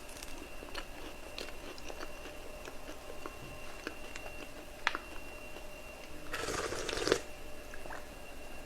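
Close-miked eating sounds of someone chewing a dessert: scattered small wet clicks of chewing, with a louder crunchy burst about six and a half seconds in.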